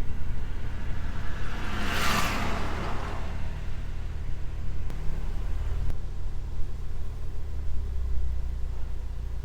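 2017 Mini Cooper S's 2.0-litre turbocharged four-cylinder engine idling warm, heard from inside the cabin as a steady low rumble, with a brief hiss about two seconds in.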